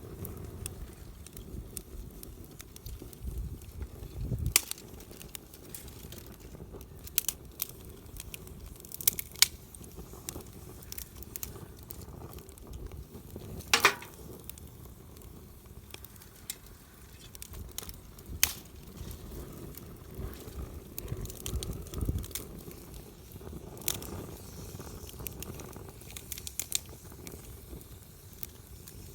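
Wood campfire crackling, with irregular sharp pops from the burning wood, a handful of them louder, over a low rumble.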